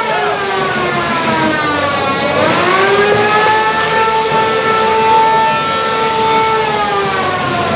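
High-pitched whine of a 1 lb combat robot's spinning weapon motor, several tones at once. The pitch sinks for about two seconds as the spinner slows, climbs sharply back up, and holds steady before dipping slightly near the end.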